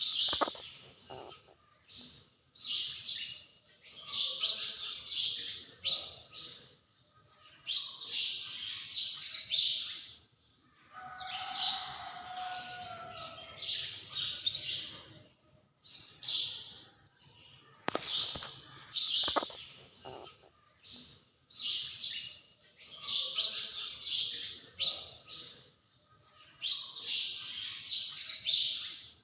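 High-pitched chirping calls from an animal, coming in repeated clusters of one to two seconds with short pauses between them.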